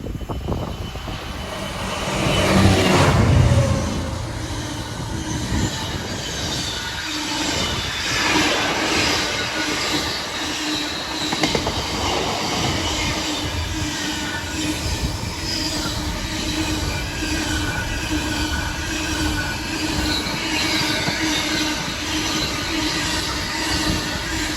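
Felixstowe South to Doncaster intermodal freight train passing at line speed: a loud surge from the locomotive about three seconds in, then the long rake of container wagons running by with steady wheel noise and clatter.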